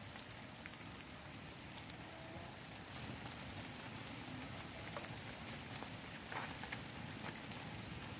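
Rain falling steadily on a plastic tarp shelter, with scattered sharp drip taps on the sheet.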